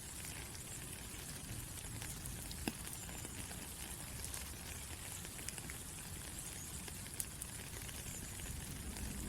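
Steady rain falling, an even hiss with a few sharper drops ticking, one a little under three seconds in and another about seven seconds in.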